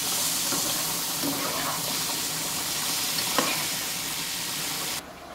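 Chopped onions, tomatoes and spices sizzling in a hot oiled frying pan while a metal spoon stirs them, with an occasional scrape of the spoon on the pan. The sizzle cuts off suddenly near the end.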